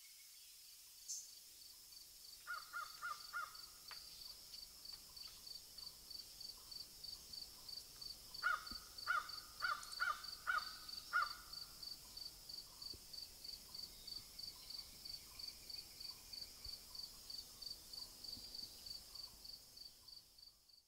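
Outdoor bird calls: a run of four harsh calls about two and a half seconds in, then a louder run of about seven a few seconds later. Under them runs a steady, high-pitched pulsing trill at about three pulses a second.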